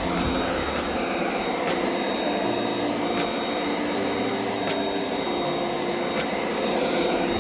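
Concrete saw cutting relief joints into a freshly poured slab, a steady, unbroken motor and blade noise.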